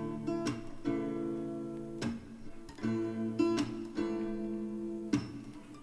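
Background music: acoustic guitar strumming chords that ring on between strokes.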